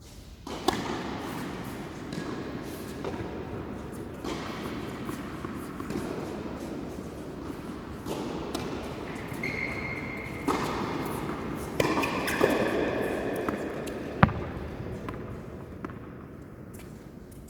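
Tennis ball being struck by racquets and bouncing on the court during a rally: a few sharp hits at uneven intervals over a steady background noise, the loudest about three-quarters of the way through.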